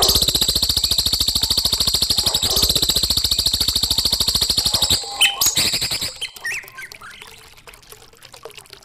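A songbird giving a very fast, even rattling trill, high-pitched and about five seconds long, then a few short chirps, after which the sound drops away.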